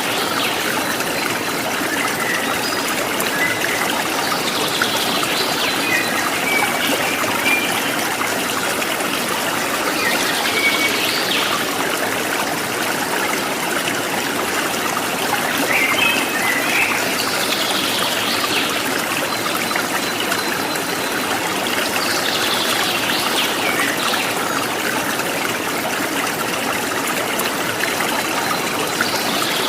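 Running water of a stream, a steady trickling rush, with short bird calls breaking in every few seconds.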